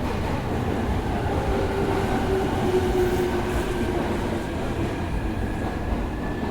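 Inside an E231-series electric train car standing at a platform: a steady low rumble of the car's onboard equipment, with faint whining tones that begin about two seconds in.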